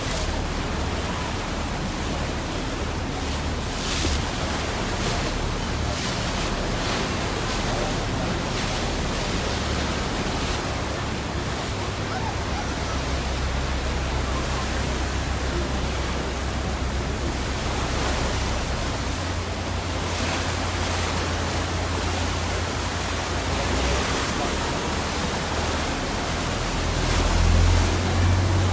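Steady rushing noise of wind and churning sea water heard from aboard a large sightseeing boat, with a low rumble underneath and a louder gust near the end.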